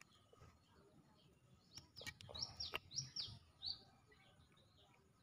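A small bird chirping in the background: a quick run of short, high, falling chirps starting about two seconds in and lasting a couple of seconds. A few faint clicks of plastic parts being handled come with it.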